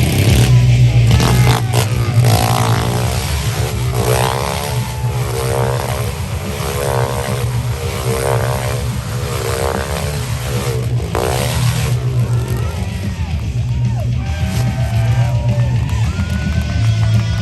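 Motorcycle engines revving up and down in repeated swells, about one every second and a half, over loud rock music with a heavy bass line. The revving fades about twelve seconds in, leaving the music.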